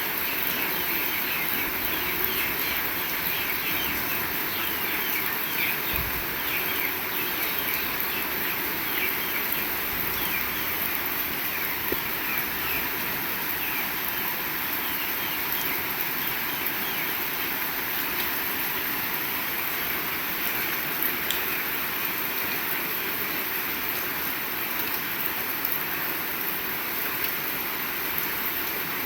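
Heavy rain falling steadily. Birds chirp over it during roughly the first third.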